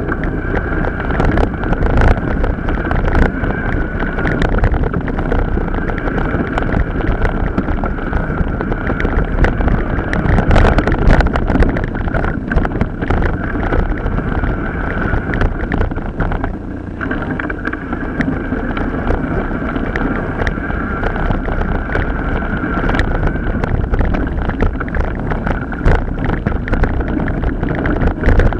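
Wind buffeting the microphone while a mountain bike rattles and knocks over rough off-road ground, with a steady whine running through it that drops out briefly about halfway.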